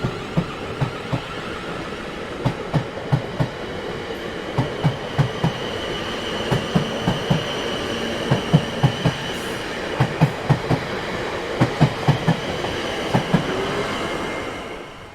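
Train running on the rails: its wheels clatter over rail joints in repeating clusters of clicks, over a steady rumble with a high whine. It fades out near the end.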